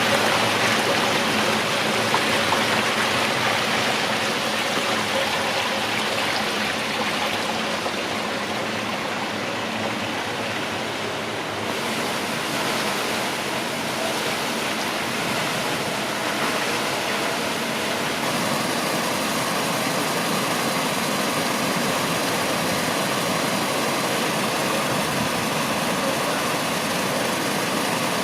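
Water rushing and splashing steadily down stepped garden fountains and cascading channels. The sound changes abruptly twice, about 12 and 18 seconds in, as it moves to a different water feature.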